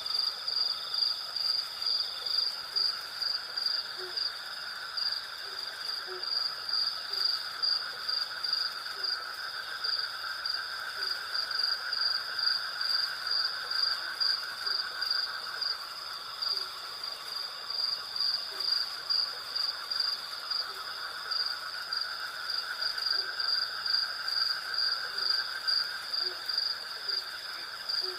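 Night insect chorus of crickets: a high, rhythmic chirping at about two pulses a second over a steady high trill and a lower buzzing that swells and fades. Short low calls sound about once a second underneath.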